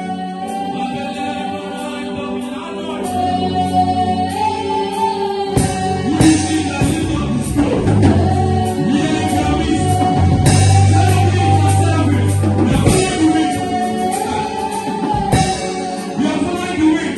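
Gospel worship music with singing over a held, wavering melody line; the bass and fuller accompaniment come in about five seconds in.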